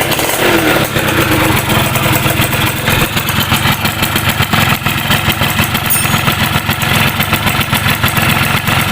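Yamaha F1ZR single-cylinder two-stroke motorcycle engine, freshly rebuilt, running steadily at idle with a rapid, even firing beat.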